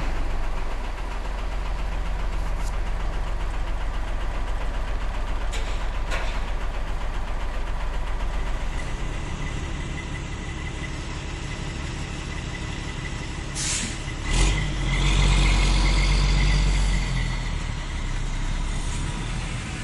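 A model truck's engine sound running steadily at a low rumble, with a few light clicks. About 14 seconds in there is a short burst of noise, and the rumble then grows louder for a few seconds before settling back.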